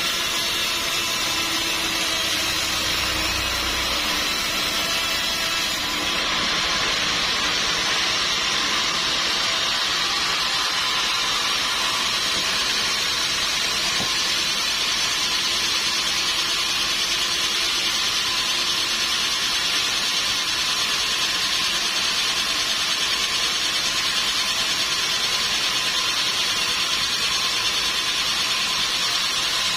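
Sawmill saw cutting through a teak log, a steady high-pitched mechanical noise.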